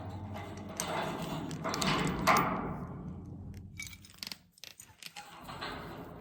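Metal jangling and clanking in irregular clatters, with a short lull about four and a half seconds in.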